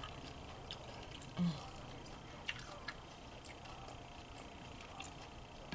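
Quiet chewing with scattered lip smacks and mouth clicks, a few sharp ticks spread over several seconds, and a brief low hum about a second and a half in.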